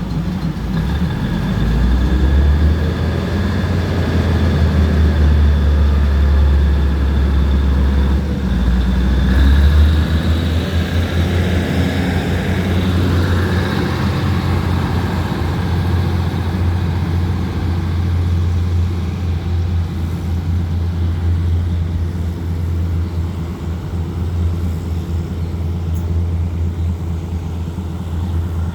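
Diesel locomotive engine running with a steady low rumble, heavier for the first ten seconds or so.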